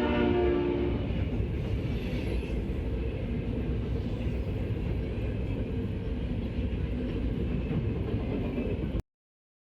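A train's horn chord dies away about a second in, leaving the steady rumble of the train rolling past; the sound cuts off abruptly near the end.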